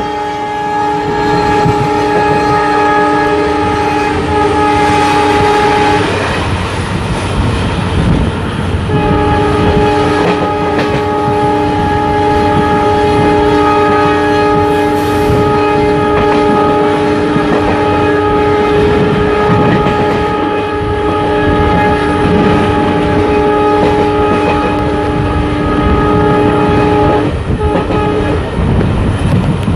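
Locomotive horn of an Indian express train sounding long, steady blasts as the train runs through a station without stopping: about six seconds, a short pause, then one long blast of nearly twenty seconds, with another starting at the end. Under the horn, the constant rumble and wheel clatter of the passing train.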